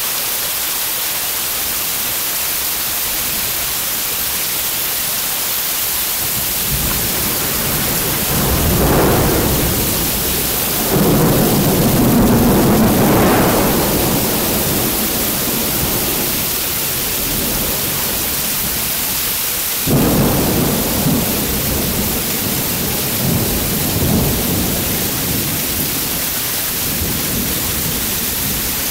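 Heavy downpour hissing steadily, with rolls of thunder: a rumble swelling about a quarter of the way in, a louder long roll just after it, and a sudden clap about two-thirds in that rumbles on for several seconds.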